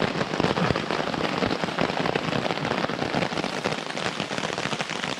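Heavy rain falling on a tarp: a dense, steady run of small drop hits.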